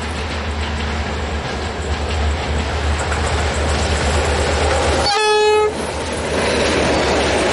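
Diesel train approaching with a steady low engine rumble that grows gradually louder. About five seconds in, a short horn blast sounds for about half a second, followed by the rushing noise of the train passing.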